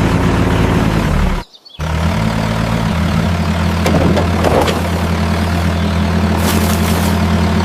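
A vehicle engine running steadily with a low hum. It cuts out for a moment about a second and a half in, then runs on evenly.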